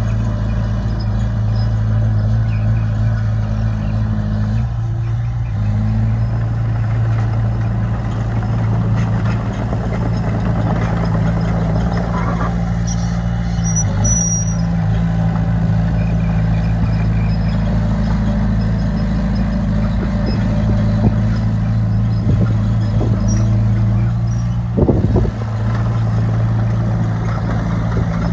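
Heavy diesel engine of earthmoving machinery running steadily under load, its pitch shifting a few times as it works.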